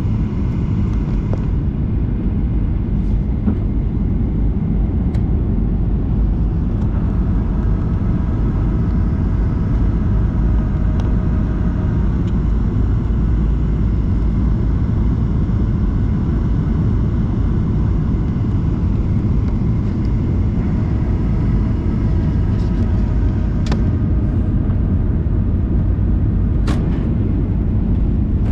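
Steady low cabin rumble of a Boeing 737-800 in flight, heard from inside the passenger cabin. A faint engine whine from its CFM56 turbofans rises into hearing twice, for a few seconds each time, over the steady noise.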